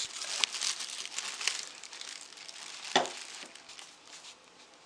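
Packaging being handled during an unboxing: crinkling and rustling of plastic wrap and cardboard, with one sharper crack about three seconds in, then the handling dies down.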